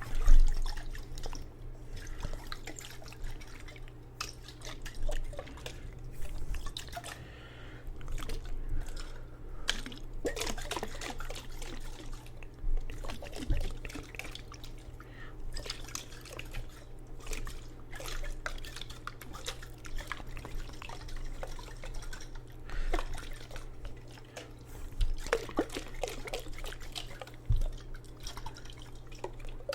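Water in a jar dripping and splashing close to the microphone, in irregular small drips and splashes, over a steady low hum.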